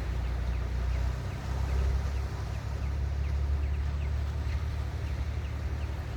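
Steady low rumble of sea waves, with wind on the microphone, and small birds giving short, repeated high chirps a couple of times a second.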